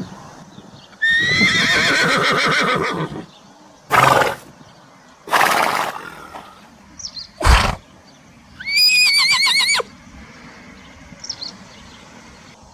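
A horse neighing twice: a long whinny with a shaking pitch about a second in and another near nine seconds, with short noisy blows between them.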